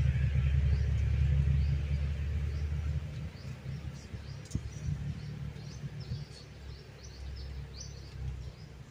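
Birds chirping in short repeated calls over a low rumble that fades away about three seconds in.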